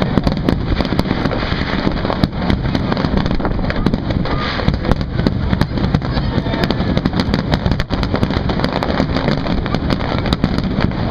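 Fireworks finale: a rapid, unbroken barrage of aerial shell bursts, the bangs crowding one on another over a continuous rumble and crackle.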